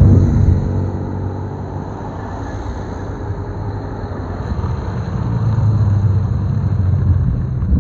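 Car engines running as cars drive past, the loudest right at the start and another swelling up about five seconds in and fading near the end.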